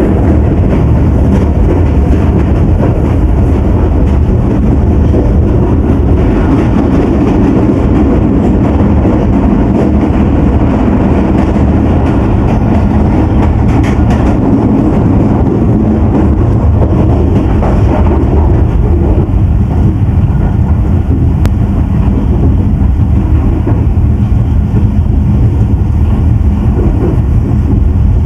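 Pakistan Express passenger train in motion: a steady, loud rumble of the coaches' wheels running on the track.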